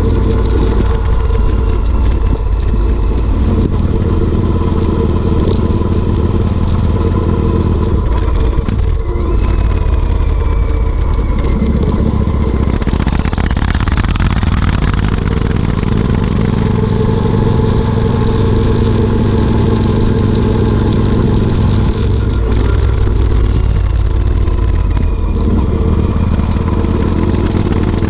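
Royal Enfield Interceptor 650's parallel-twin engine running through a Motowings aftermarket exhaust, a loud, deep rumble whose pitch shifts every few seconds as the throttle changes.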